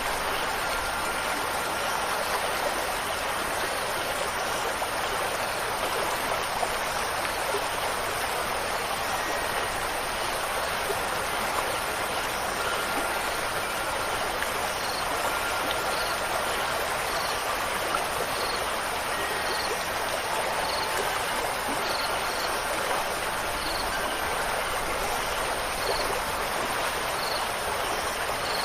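Steady rush of running water from a flowing stream. Faint short high tones sound here and there, and in the second half a faint high chirp repeats about once a second.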